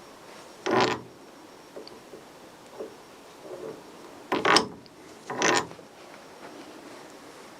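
Metal tools and hardware being handled: three short bursts of clicking and rattling, one about a second in and two close together past the middle, with faint ticks between them.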